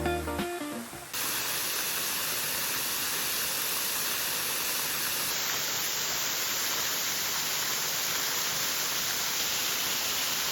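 Waterfall rushing: a steady hiss of falling water that comes in abruptly about a second in and holds at an even level.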